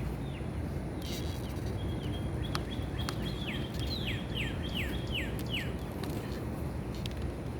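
A songbird singing a quick run of about six downward-sliding notes around the middle, after a brief thin held note, over a steady low background rumble of outdoor noise. A couple of faint clicks sound just before the run.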